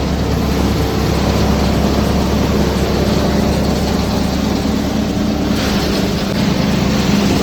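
Sonalika tractor engine running steadily under load, driving a paddy thresher, with a constant drone. A rushing noise joins the drone about five and a half seconds in.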